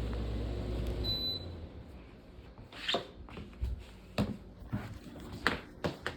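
An air conditioner's control beeps once about a second in and its low hum then dies away, as the unit is shut off. After that a quieter air conditioner runs faintly under a few scattered knocks and clicks.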